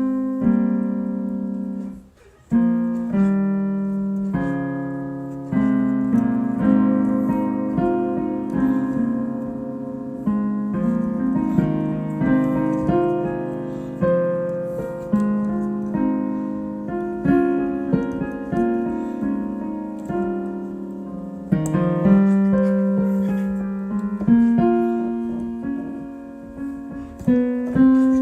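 Solo piano improvisation: chords and melody notes struck and left to ring and fade, with a brief break about two seconds in before the playing resumes.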